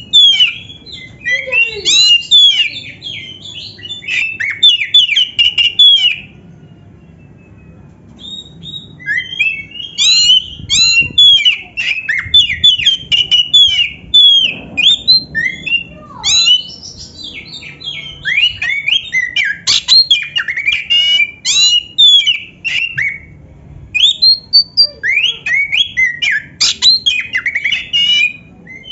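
Oriental magpie-robin (kacer) singing a loud, rapid, varied song of sweeping whistles and chattering notes, with canary-like fill-in phrases. It sings in long bursts, with a pause of about two seconds after the first six seconds and a brief one near the end.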